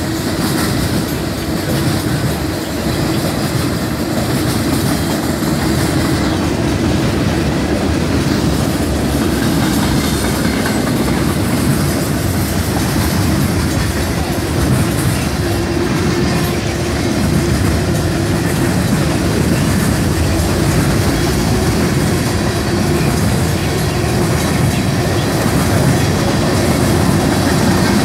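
CSX freight train's boxcars and covered hopper cars rolling past at close range: a loud, steady noise of steel wheels running on the rails.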